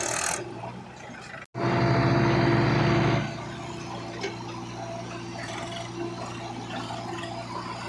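Heavy diesel machine engine running steadily. After a brief cut about one and a half seconds in, it runs louder for under two seconds, then settles back to a lower, steady run.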